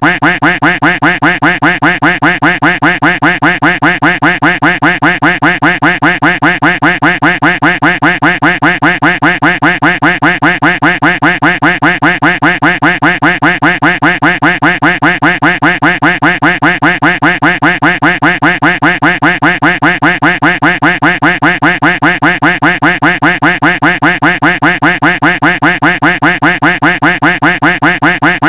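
Duck quack sound effect looped without a break, several short quacks a second in an even rhythm.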